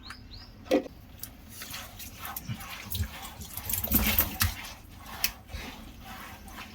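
Water splashing and pouring over a dog's shampooed coat as it is rinsed out, in irregular splashes that grow louder about halfway through.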